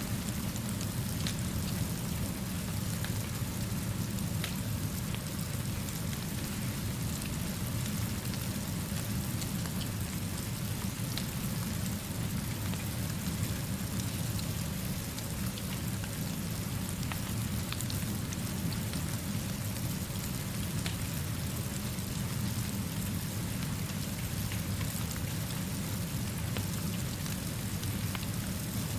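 Steady rainfall with a low, even rumble underneath and scattered small ticks of drops. It stays level throughout, with no sudden changes.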